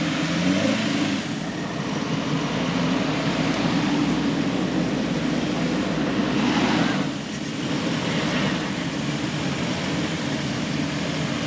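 Off-road 4x4's engine running hard under load, its noise swelling about six to seven seconds in and then easing off.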